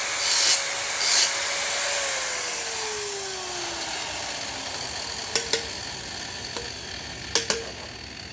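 Hand-held power tool grinding metal in short strokes, then switched off, its motor whine falling in pitch as it winds down. A few sharp metal clinks follow later.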